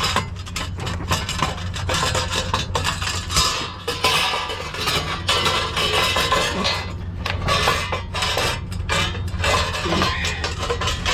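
Irregular metal clanking, clinking and scraping as a steel mounting bracket is worked loose and pulled out from among engine-bay parts, over a steady low hum.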